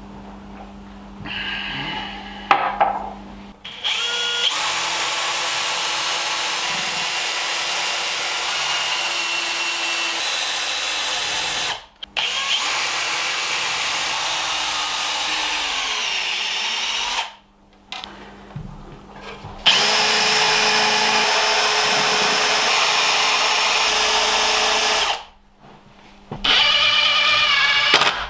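Power drill boring screw holes into the oak mounting pieces of a table base. It runs in several long bursts of several seconds each, with short pauses between them, and its pitch shifts a little as the bit works.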